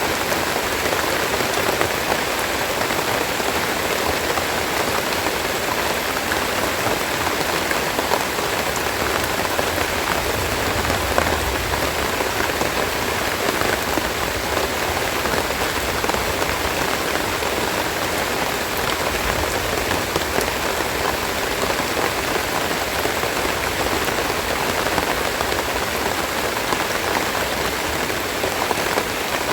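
Steady rain falling: an even hiss of rain with scattered sharper hits of individual drops.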